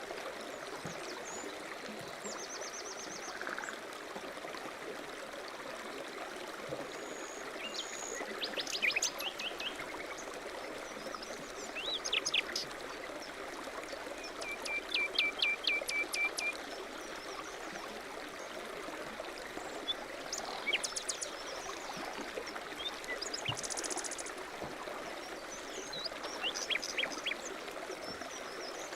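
Steady rush of running water from a mountain stream, with songbirds chirping and trilling over it every few seconds; the longest call, a quick run of repeated notes, comes about halfway through.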